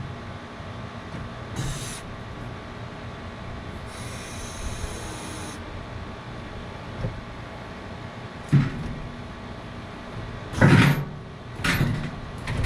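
John Deere 5075E tractor engine idling steadily. A hiss lasts about a second and a half near the middle, then several loud knocks and clunks follow near the end.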